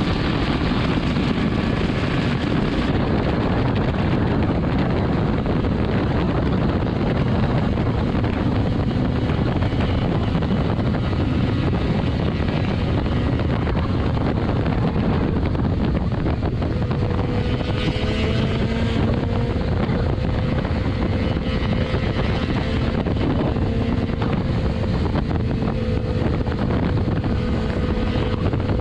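Onboard sound of a BMW S1000RR ridden at steady highway speed: heavy wind rush over the microphone mixed with the inline-four engine. About two thirds of the way in, a faint steady whine joins it.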